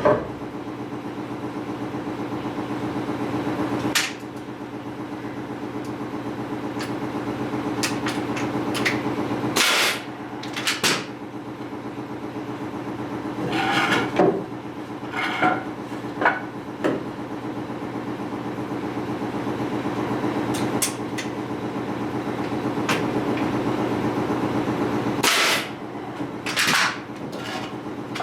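Nails being driven into a wooden frame of 2x2 and 2x4 lumber: about eight sharp knocks, several in a cluster around the middle and a couple near the end, over a steady motor hum that runs throughout.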